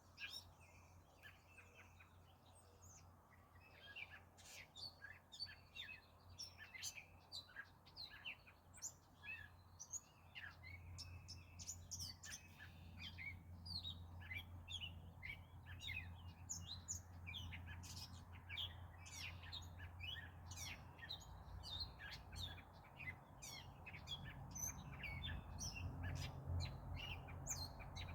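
Several wild birds chirping and calling in quick, overlapping short notes. A low rumble builds underneath from about a third of the way in.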